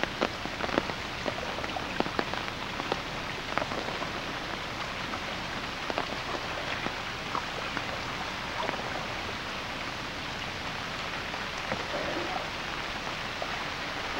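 Steady rain falling on a flooded street, with many sharp raindrop ticks, thickest in the first few seconds.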